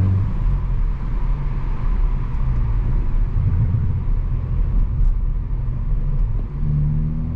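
Hyundai i20 N's 1.6-litre turbocharged four-cylinder engine and road noise as the car drives: mostly a low, rough rumble with little engine note, then the engine note picks up and rises again near the end.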